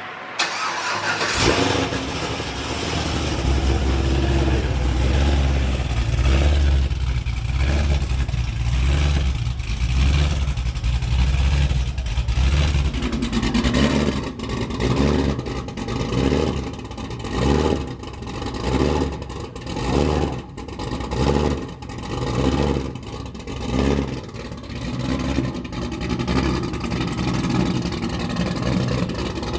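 Cammed Cadillac CTS-V V8 started about a second and a half in, then running and idling through an exhaust fitted with QTP electric cutouts. Later on the engine note rises and falls roughly once a second in an uneven, loping rhythm.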